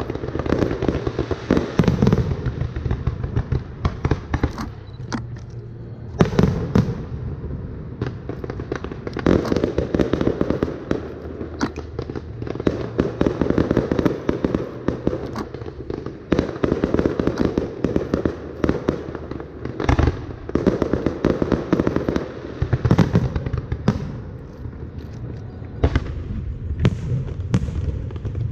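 Fireworks display: a dense, unbroken run of bangs and crackling bursts, with louder booms every few seconds.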